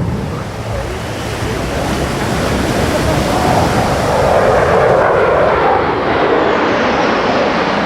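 Jet roar from Thunderbirds F-16 Fighting Falcon fighters flying the display, a loud continuous rush that swells to its loudest about five seconds in.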